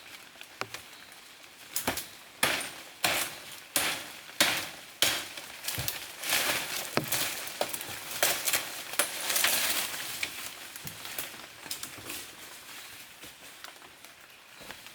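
A run of sharp knocks or snaps, about two a second, followed by a few seconds of crackling rustle that fades out.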